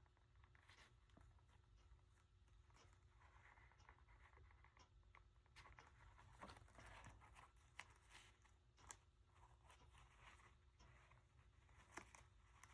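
Near silence, with faint rustling and a few light clicks from paper and small craft pieces being handled.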